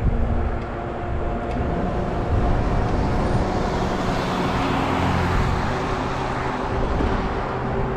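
Road traffic: a car passes, its tyre and engine noise swelling and fading in the middle, over a steady low rumble.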